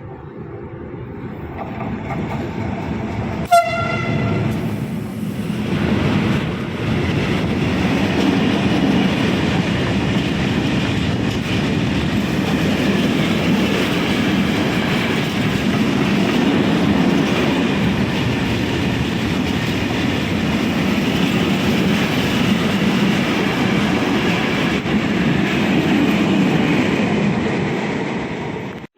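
A train gives one short, loud blast of its horn, then runs past close by with a loud, steady rumble of wheels on rails for some twenty seconds. The sound cuts off abruptly near the end.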